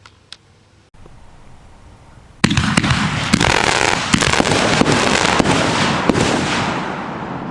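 Smoking Alien "Sensei" 500 g, 20-shot firework cake firing. About two and a half seconds in, a rapid string of shots and bursts starts suddenly, roughly two a second, and fades near the end.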